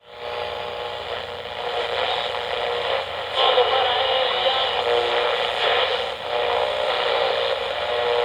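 Steam-train sound effect heard through an old, bandwidth-limited radio recording: a steady hissing rush with held whistle-like tones that get louder about three seconds in.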